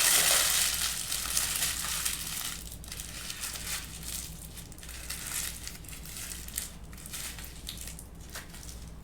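Close-up crinkling and crunching, loudest at the start and tapering to a softer, ongoing crackle.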